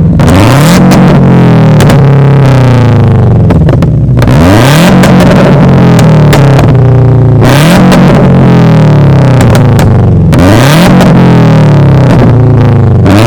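Subaru BRZ's 2.0-litre flat-four engine, breathing through catless unequal-length headers, a catless front pipe and an Invidia N1 cat-back exhaust, revved hard about four times, its pitch climbing and falling with each rev. Very loud.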